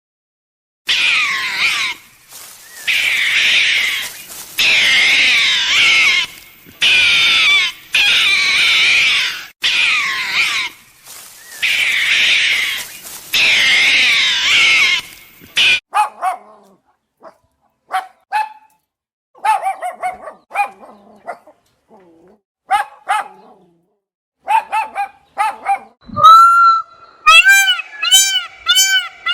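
Animal calls: a long run of loud, dense calls, each lasting about a second, then shorter scattered yips and calls, and a quick series of ringing calls near the end.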